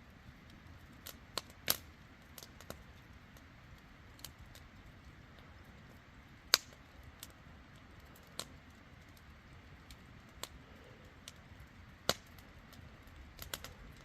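Rain dripping onto a tent: a steady faint hiss with scattered sharp ticks at irregular intervals, a handful of them much louder than the rest.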